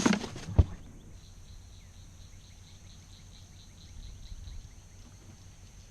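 A short knock and rustle right at the start, then insects chirping in an even pulse of about four chirps a second over a steady high-pitched insect drone.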